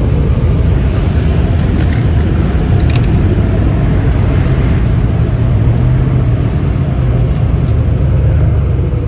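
Tunnel car wash machinery running with a loud, steady rumble, heard from inside the car, with a few faint clicks.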